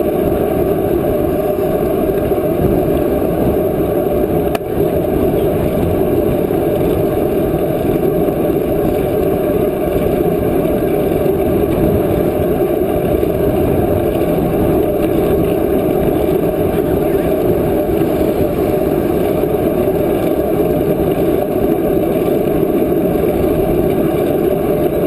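Steady rushing noise of riding on a bicycle, wind and tyre noise on the rider's camera, even and unbroken throughout.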